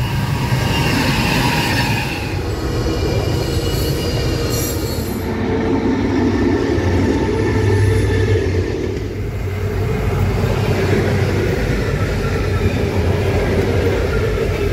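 Diesel-hauled freight trains passing close by at speed: locomotive engines running and wagons rumbling along the rails, with thin high tones from the wheels in the first few seconds.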